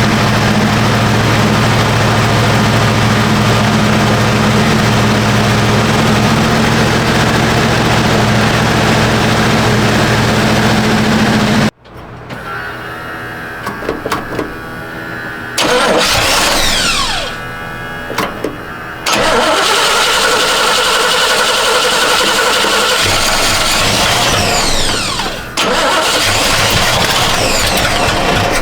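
Chevrolet 350 small-block V8 running steadily for about twelve seconds before cutting off abruptly. Shorter stretches of running follow, with the engine revving up and settling back down.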